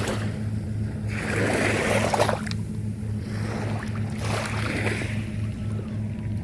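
Small waves washing in at the seaside, the rush of water swelling and fading twice about three seconds apart, over a steady low hum.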